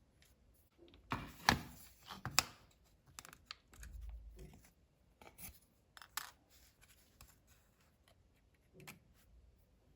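Hands working small crafting materials: scattered sharp clicks and short scrapes and rustles, the loudest two clicks in the first few seconds, then sparser handling noise.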